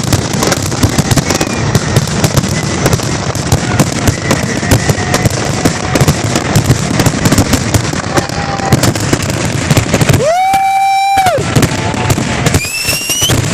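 Fireworks going off in a dense, continuous barrage of rapid bangs and crackles. About ten seconds in, a whistling tone is held for about a second, and near the end there is a brief rising whistle.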